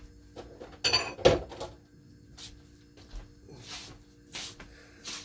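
A bowl being taken out from among other dishes: a clatter of clinking crockery about a second in, followed by a few lighter knocks.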